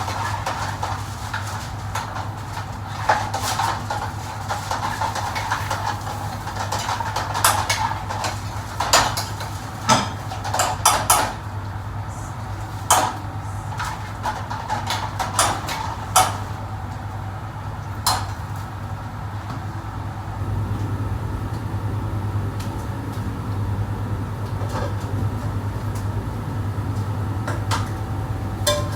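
Pots, pans and dishes clattering and knocking at irregular intervals, busiest in the middle stretch, over a steady low hum of kitchen machinery.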